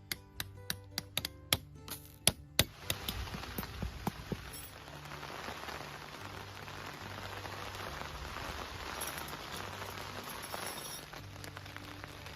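Steady rain hiss that sets in about three seconds in and keeps on, over soft background music with low plucked notes. The first seconds hold a run of sharp ticks and plucked notes before the rain comes in.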